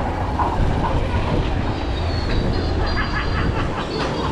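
Steady low rumble of vehicle noise in a busy street, with faint voices in the background and thin high tones that come in near the end.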